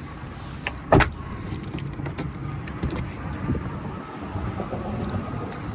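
A single sharp clunk about a second in, then light jingling and rattling over a low steady rumble.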